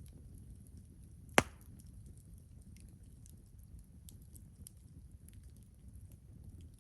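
Campfire burning with faint scattered crackles and a low rumble, and one loud, sharp pop from the burning wood about a second and a half in.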